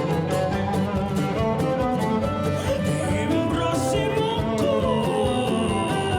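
Live acoustic string band playing an instrumental: bowed cello over guitar and mandolin, with a steady run of sharp percussive strikes. A few notes slide in pitch about four to five seconds in.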